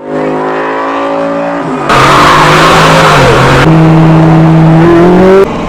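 Car engine running at high revs under hard acceleration, loud, in short pieces with abrupt changes about 2 and 4 seconds in, the pitch rising just before it cuts off near the end.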